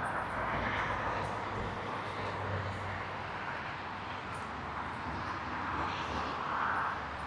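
Fat-tyre e-bike rolling through loose powder sand: a steady rushing noise from the tyres and the ride, swelling a little now and then.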